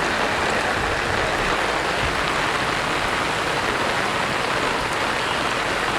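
Heavy rain pouring down, a steady, even hiss of rain on surfaces.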